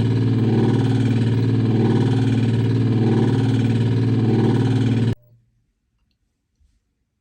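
LG top-load washer's direct-drive motor running with a loud, steady low hum and grinding noise, the sound of a failed Hall sensor, a fault that ends in the LE error code. It cuts off abruptly about five seconds in.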